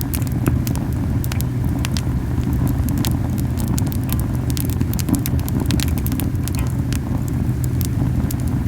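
Camellia wood fire crackling, with frequent sharp snaps and pops over a steady low whooshing rumble of the flames: the fire is burning very hot.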